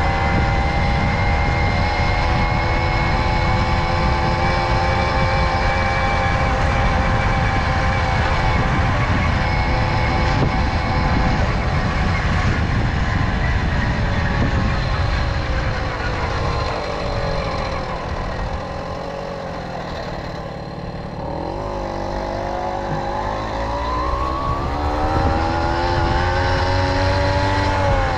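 Tomos Silver Bullet moped's two-stroke engine heard while riding: it holds a steady cruising pitch, then falls away as the rider eases off. About two-thirds of the way through it revs back up with a steady rising whine, over a constant low rumble of wind and road noise.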